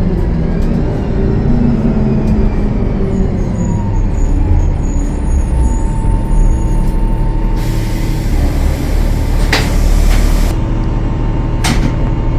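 Cummins ISL9 inline-six diesel of a Gillig Low Floor transit bus running, with a loud hiss of released air lasting about three seconds, starting some eight seconds in. Two sharp clicks come near the end.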